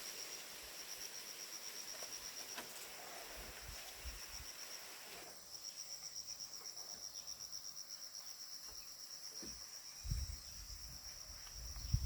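Insects, crickets by the sound, trilling continuously in a fast, even pulse that breaks off briefly about five seconds in, with a few dull low thumps near the end.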